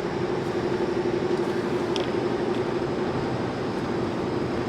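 Steady road noise and engine hum inside a moving car, with one constant droning tone.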